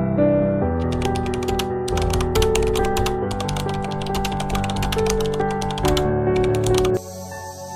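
Rapid, uneven typewriter-style key clicks over soft background music with sustained tones. Both cut off about seven seconds in, leaving quieter music.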